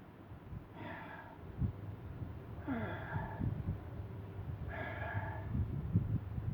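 Sleeping calico cat breathing with soft snorts, three short breaths about two seconds apart, over a low irregular rumble.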